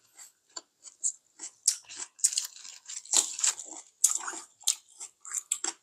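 Close-miked chewing of a mouthful of beef bulgogi with pine mushrooms: a run of short, irregular wet mouth clicks and smacks.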